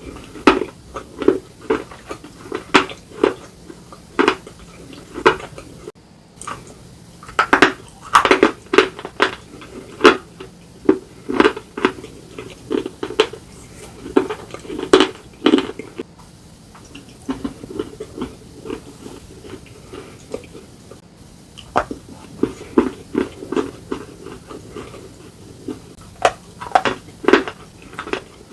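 Hard slate pieces crunching and cracking as they are bitten and chewed, in sharp, irregular crunches about one or two a second, with a few short pauses.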